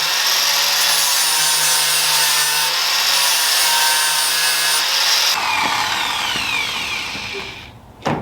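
Cordless power tool running against the car body's sheet metal where the trim tabs were cut off, grinding the spots level. About five seconds in it is switched off and winds down with a falling whine, and a short knock comes near the end.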